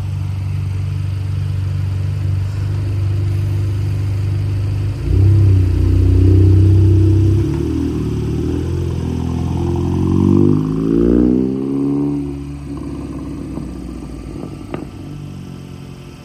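Volkswagen Golf R (Mk7) 2.0-litre turbocharged four-cylinder engine idling. It is blipped about five seconds in, then revved up and back down before settling to idle. The engine has been flagged for a misfire at high RPM and is leaking oil and smoke.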